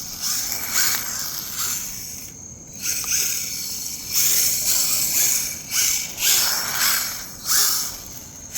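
Battery-powered RC rally car driven in repeated bursts of throttle, its motor whine rising and falling with each burst, along with the hiss of its tyres spinning and sliding as it drifts on a smooth surface.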